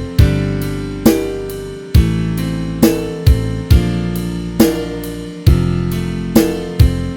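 Band backing track with a full drum kit (snare, hi-hat, cymbals and bass drum) hitting sharp accented beats over held bass and chord notes.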